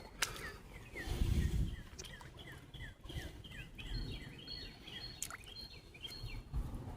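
Songbirds calling: a quick run of short down-slurred chirps, about three a second, with a thin high steady note coming and going. A brief low rumble about a second in.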